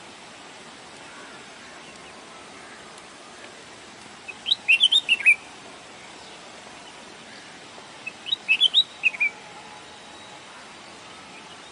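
A songbird singing two short phrases of quick, high chirping notes, about four seconds apart, over a steady background hiss.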